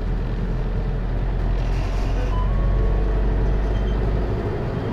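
Hino Liesse microbus's J05C diesel engine running with a steady low drone, heard from inside the cabin. The drone strengthens slightly mid-way, then its deepest note drops away near the end as the engine eases off.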